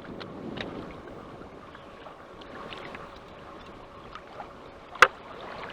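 Choppy water sloshing against a kayak, with scattered light clicks and one sharp knock about five seconds in.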